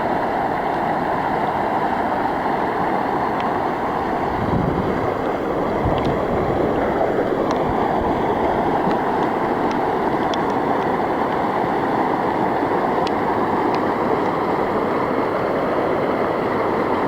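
Fast floodwater rushing across the ground in a steady, loud rush, with a few faint ticks over it.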